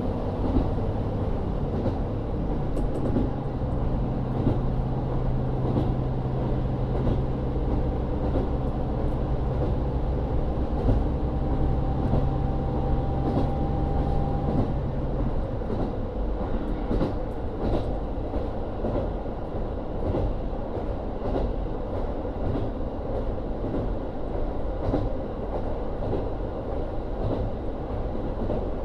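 JNR KiHa 40 diesel railcar running, heard from inside the car, its N-DMF13HZB diesel engine giving a steady drone that falls away about halfway through as the car coasts. Wheels rumble and click rhythmically over rail joints, most plainly in the second half.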